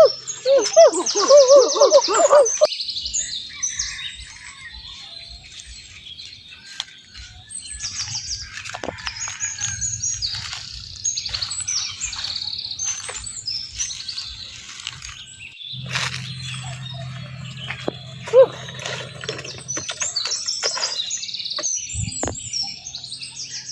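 Small birds chirping and twittering on and off throughout, with a louder wavering call over the first couple of seconds. A steady low hum joins for a few seconds past the middle.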